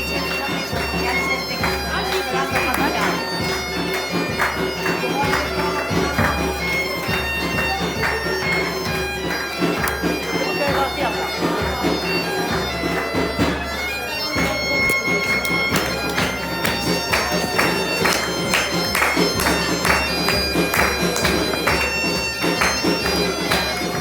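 Bagpipe playing a tune over its steady drone, with a drum beating along, the drumming busier in the second half.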